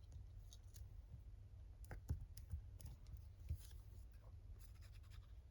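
Near silence, with a few faint taps and clicks of paper and tools being handled on a craft desk.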